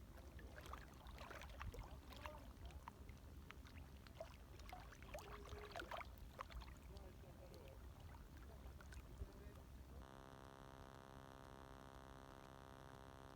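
Faint gentle waves lapping and trickling with small irregular splashes. About ten seconds in, this cuts off suddenly to a faint steady electrical hum.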